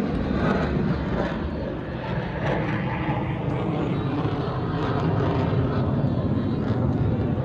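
Jet noise from the Thunderbirds' F-16 fighter jets in flight, a dense steady rush that eases off about two seconds in and then holds level.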